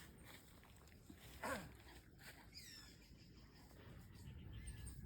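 Quiet outdoor background with one short animal call about a second and a half in, falling in pitch, followed shortly by a faint high falling chirp.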